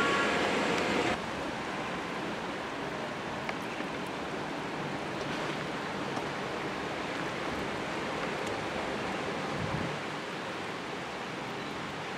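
A High Speed Train's diesel power car running, with a few steady tones, cut off abruptly about a second in. A steady, even hiss of outdoor background noise follows.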